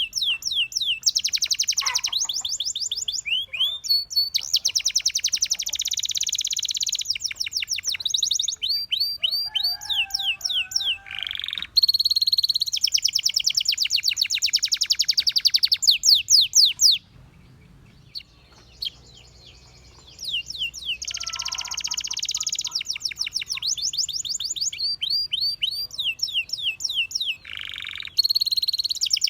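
Domestic canary singing: long runs of rapid trills and rolls of repeated high notes, with a break of a few seconds a little past the middle.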